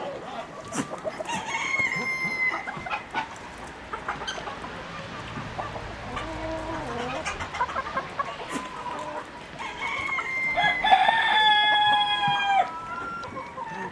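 Chickens: a rooster crows briefly about two seconds in, then gives a longer, louder crow near the end, while hens cluck in between.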